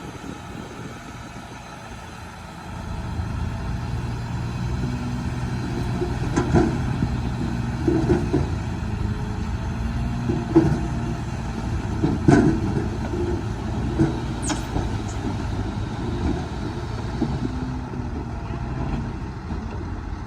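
Bulldozer diesel engine working steadily, getting louder about three seconds in, with several sharp metallic clanks from the machine.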